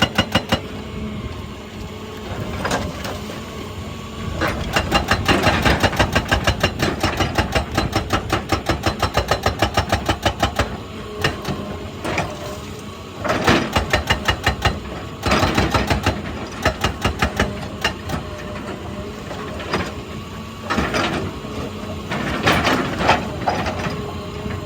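Excavator-mounted hydraulic breaker hammering rock in repeated bursts of rapid blows, several a second, with the excavator's engine running steadily between bursts.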